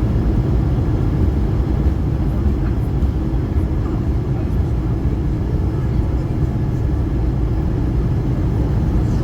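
Steady low rumble of an Airbus A220-300 heard from inside the passenger cabin: engine noise and airflow, with no clear rise or fall in pitch.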